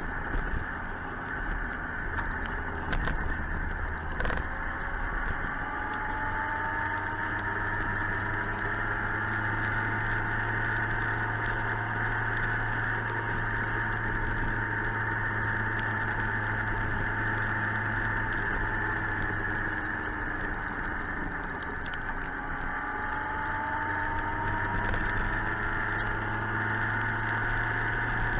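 Suzuki GSX-R 1000 inline-four running under way, its pitch slowly rising and falling with the throttle, over steady wind and road noise, with a few sharp clicks a few seconds in.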